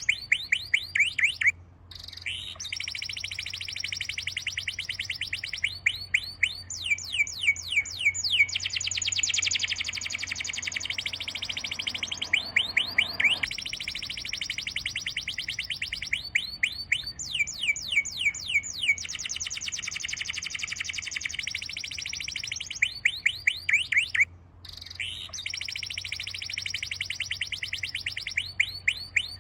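Birdsong: a long, fast run of rapid chirps repeated in phrases every few seconds, with two short breaks.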